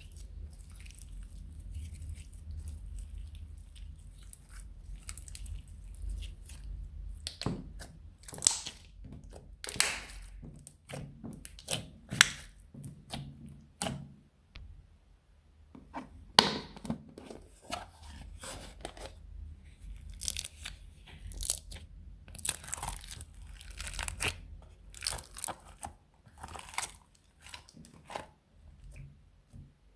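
Slime being squished and kneaded by hand, with irregular crackling and crunching pops of varying loudness.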